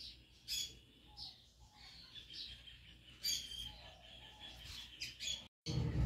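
Faint, scattered chirps of small birds, a few short calls spread through.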